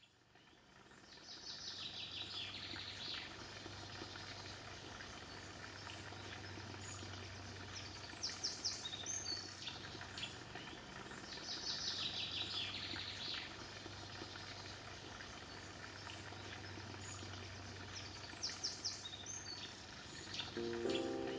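Birdsong outdoors: a bird repeats a short, rapid trilled phrase every few seconds over a steady background hiss and low hum. Music comes in near the end.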